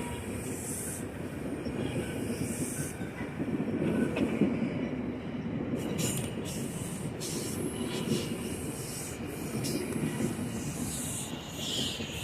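A train rolling past on the rails, a continuous rumble with wheels squealing at times.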